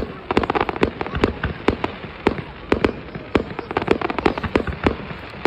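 Fireworks going off in a rapid, irregular barrage of sharp bangs and cracks, several a second.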